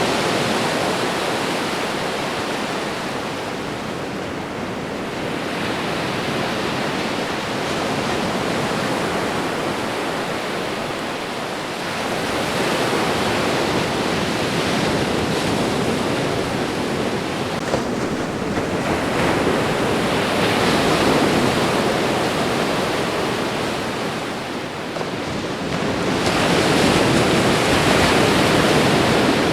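Ocean waves breaking and washing up the shore in a steady rush of surf that swells and eases every several seconds.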